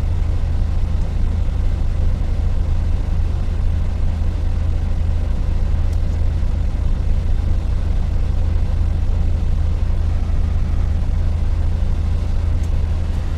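Dongfeng truck's diesel engine running steadily, a low, even drone heard from inside the cab.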